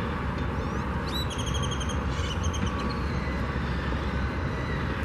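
Steady outdoor rumble of traffic and construction-site machinery, with a bird giving a quick run of high chirps about a second in.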